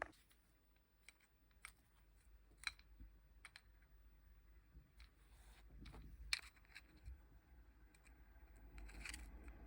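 Faint, scattered clicks and light taps of small plastic boiler parts being handled, over near silence.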